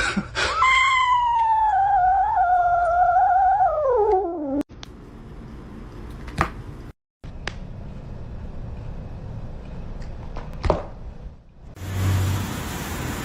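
A cat's long, drawn-out yowl, wavering in pitch for about four seconds and sliding down at the end. It cuts off, followed by faint background noise with a few sharp clicks.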